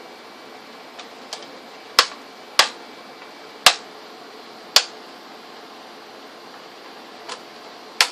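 A series of sharp, short clicks at irregular spacing, five loud and three fainter, over a steady hiss.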